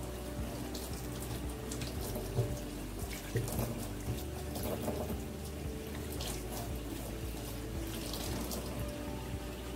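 Tap water running into a stainless steel sink as hands and forearms are scrubbed under the stream, with irregular splashing and a few louder splashes a few seconds in.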